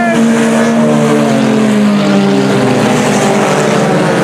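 Several IMCA Sport Compact race cars running together on a dirt oval, their four-cylinder engines loud and overlapping, pitches rising and falling as they go through the turns.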